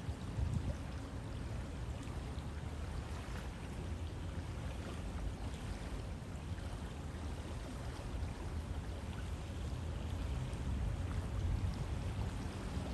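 River water flowing steadily: a continuous, even rushing noise.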